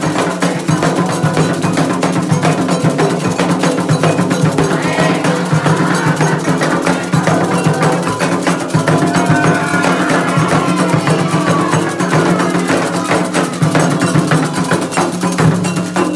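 Candomblé ritual percussion: atabaque hand drums playing a dense, fast rhythm with an agogô bell ringing over them.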